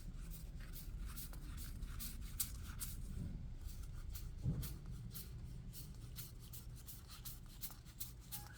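Yu-Gi-Oh! trading cards being handled and sorted by hand: a quick, uneven string of light clicks and slides of card against card, with one louder knock about four and a half seconds in.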